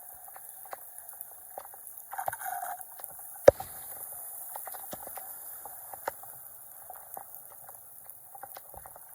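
Floodwater gurgling and splashing at a drain, with scattered clicks and knocks and a sharp knock about three and a half seconds in.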